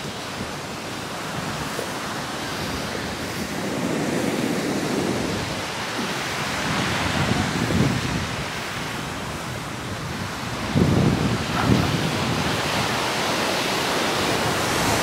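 Surf breaking on a sandy beach, with wind on the microphone; the waves swell several times, loudest about eleven seconds in.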